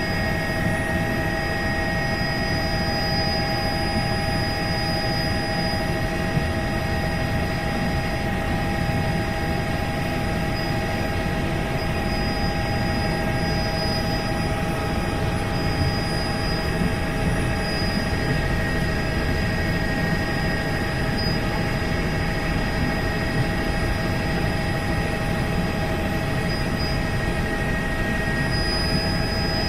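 Helicopter running steadily: a constant dense drone of engine and rotor noise with several unchanging high whining tones through it.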